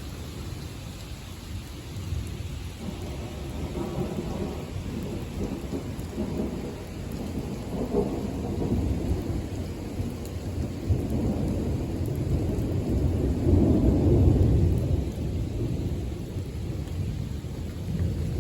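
Rolling thunder over steady light rain: a low rumble that swells in waves, loudest about thirteen to fourteen seconds in, then eases off.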